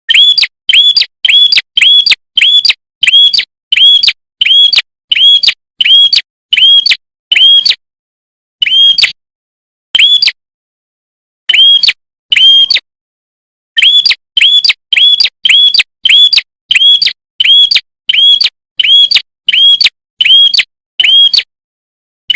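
Prenjak songbird calling: a fast, loud series of short, sharp chirps, each rising then falling in pitch, about two a second, broken by a few pauses of a second or so.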